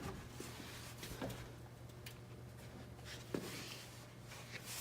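Quiet room tone with a steady low hum and two faint taps of handling, about a second in and again past three seconds.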